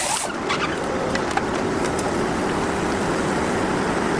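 Steady engine noise from a heavy vehicle or machine running, with a few light clicks in the first second or so.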